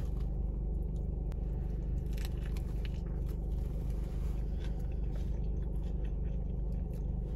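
Close-up chewing of a burger, with soft wet mouth sounds and faint crunches, over a steady low hum inside a car.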